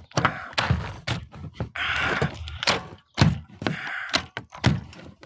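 Cordless drill with a 10 mm socket working at a stuck engine-cover bolt: repeated irregular clunks and knocks, with two short bursts of the drill running. The bolt won't come out with the drill.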